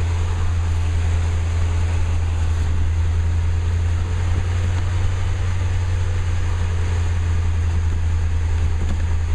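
1980 Cadillac Seville's digitally fuel-injected V8 idling steadily with a constant low hum, a couple of minutes into its first cold start after sitting since 1998.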